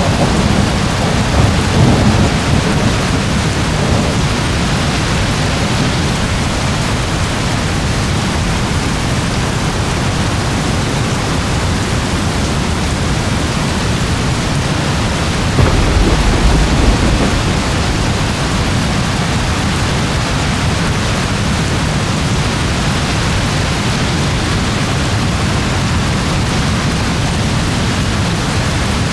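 Steady heavy rain with low rolls of thunder, one swelling about two seconds in and a stronger one about halfway through.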